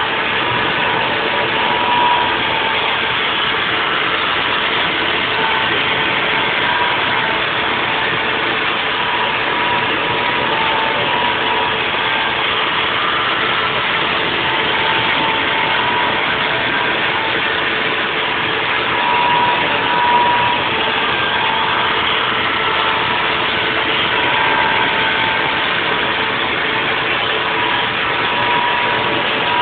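Haas VF4 CNC vertical mill running a 3D machining cut: a steady machine noise with a constant high whine that swells louder now and then.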